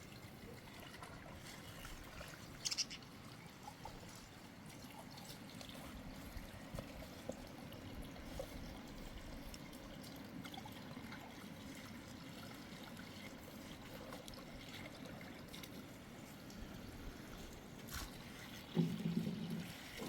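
Water trickling steadily, with a sharp knock about three seconds in and a short, loud pitched sound near the end.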